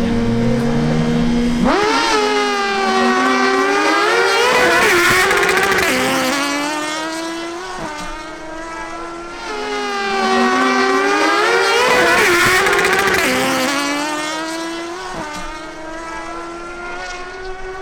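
Suzuki GSX-R1000 inline-four sport-bike engines held at high revs on the start line, then launching and accelerating hard, the pitch climbing through the upshifts before falling away as the bikes pass. A second, nearly identical run-up and fade follows about eight seconds later.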